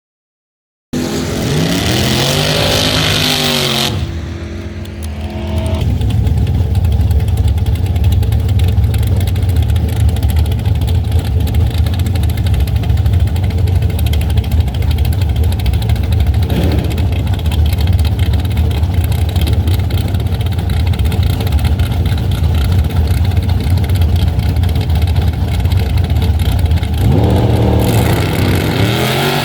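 Drag car engines. About a second in, an engine revs with its pitch rising and falling. From about six seconds a loud, steady low engine rumble runs for some twenty seconds, and revving with rising pitch comes back near the end.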